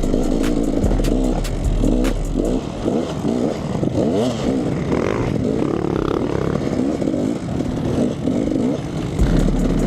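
Two-stroke dirt bike engine revving as it is ridden, its pitch climbing and dropping over and over as the throttle is worked.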